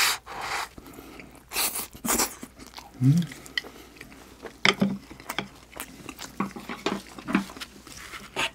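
Close-miked chewing of a mouthful of rice: wet smacking and clicking of the lips and mouth, with a few sharp breaths in the first two seconds and a short low hum about three seconds in.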